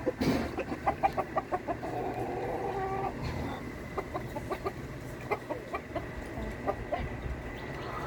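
Chickens clucking in quick runs of short calls.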